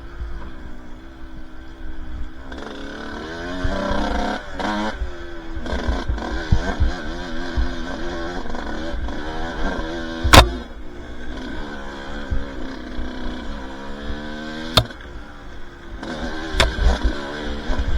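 Two-stroke dirt bike engine revving up and down as it climbs a trail, its pitch rising and falling with the throttle. A few sharp knocks cut through it, the loudest about ten seconds in.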